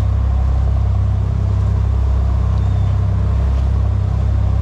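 Fishing boat's engine running steadily under way, a loud, even low drone.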